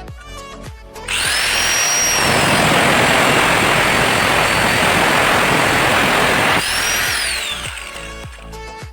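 Electric motor starting up with a rising high whine, running loudly and steadily for about five seconds, then cut off and winding down with a falling whine.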